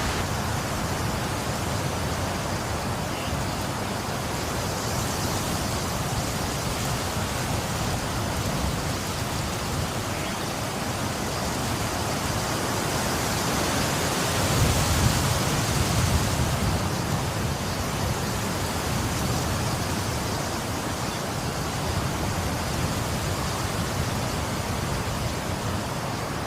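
Steady heavy rainfall, a dense even hiss, swelling louder with a deeper rumble for a few seconds about halfway through.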